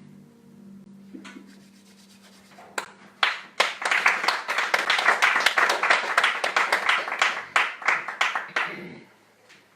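The final harp note dies away, then a small audience applauds for about six seconds, starting near three seconds in and fading out near the end.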